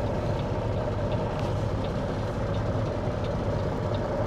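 Cat C15 ACERT inline-six diesel of a Kenworth W900L semi truck running steadily at low engine speed.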